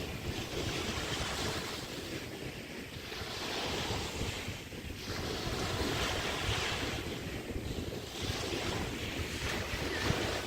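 Small waves breaking and washing on a Chesapeake Bay beach, the hiss of each wash swelling and ebbing every couple of seconds, with wind rumbling on the microphone.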